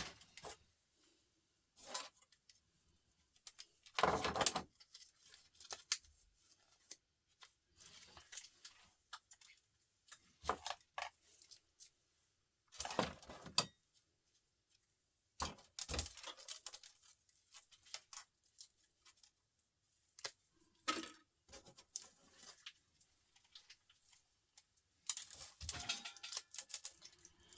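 Intermittent clinks, rattles and scraping of small metal and plastic laptop parts being handled and sorted, in short bursts with quiet gaps between them.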